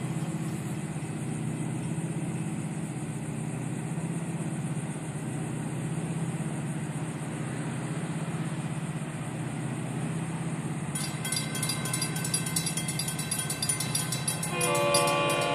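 A Florida East Coast Railway freight train approaching: a steady low rumble, then a rapid ringing starts about two-thirds of the way in, and the lead diesel locomotive's horn sounds a chord near the end.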